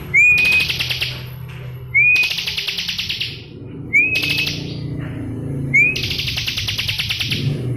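Bar-winged prinia (ciblek) singing: four phrases about two seconds apart, each a short rising whistle followed by a rapid, loud trill about a second long.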